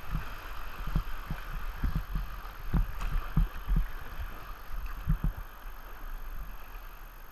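Steady rush of flowing river water, with irregular low thumps through it.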